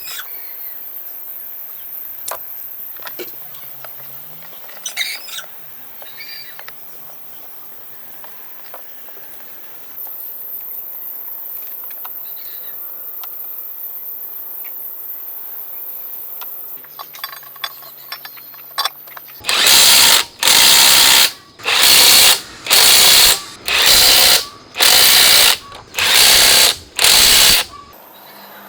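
A power tool run in eight short, loud bursts, about one a second, after a long stretch of faint clicks and handling.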